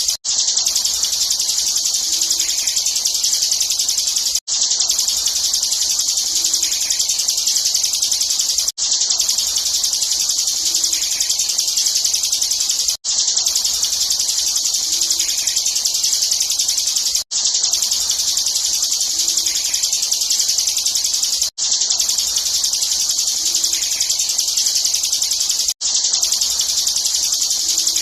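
Bar-winged prinia (ciblek) singing a dense, continuous high-pitched trill in the rapid 'ngebren' contest style. It is a short recording looped, with a brief cut-out about every four seconds before the trill starts again.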